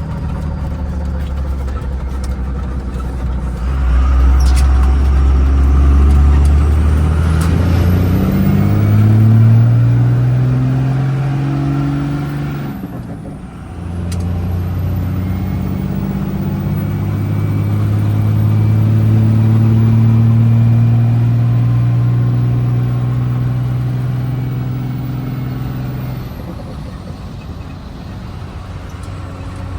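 Engine of a moving vehicle accelerating, its pitch climbing steadily, dropping briefly about 13 seconds in as it shifts gear, then climbing again and holding before easing off near the end.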